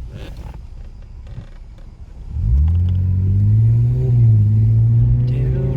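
Lexus IS250's 2.5-litre V6 under way: a low rumble, then about two seconds in the engine revs up sharply under acceleration and settles into a loud, steady drone.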